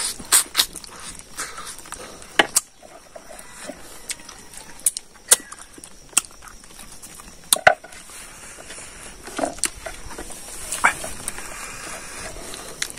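Close-up mukbang eating sounds: a man chewing spicy pork leg and rice with his mouth open, with scattered sharp lip smacks and mouth clicks.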